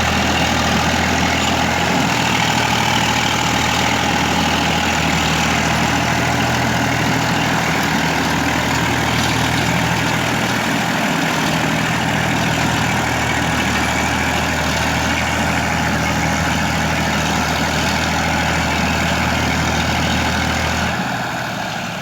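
Massey Ferguson tractor's diesel engine running steadily; its low note drops away and the sound gets quieter near the end.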